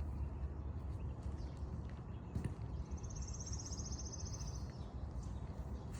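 A small bird's rapid, evenly pulsed high trill, starting about three seconds in and lasting under two seconds, over a steady low outdoor rumble.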